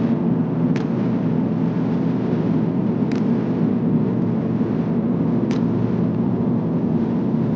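Steady drone of an Airbus A350-900 airliner cabin in cruise: engine and airflow noise, low and even. A faint tick recurs about every two and a half seconds.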